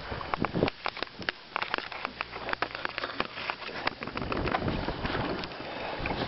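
Irregular clicks, taps and knocks of a caught walleye being handled in a boat and laid out for measuring, with a rustling, scraping noise in the second half.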